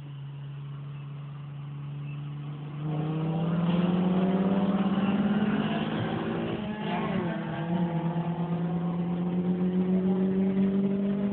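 Car engine heard from inside the cabin: a steady drone, then about three seconds in it goes to full throttle and climbs slowly in pitch under hard acceleration, drops briefly at a gear change about seven seconds in, and climbs again.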